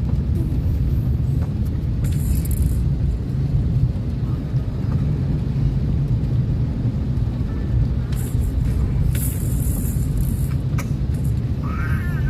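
Steady low rumble of a car's cabin while driving in the rain, with short bursts of high hiss about two seconds in and again about eight to ten seconds in, and a brief rising-and-falling pitched sound near the end.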